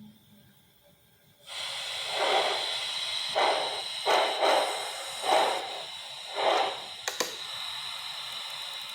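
A sound-equipped model PRR T1 steam locomotive's onboard speaker playing steam hiss and slow chuffs as it starts to move, coming in about a second and a half in. The chuffs are uneven, about one a second, with a sharp click near the end.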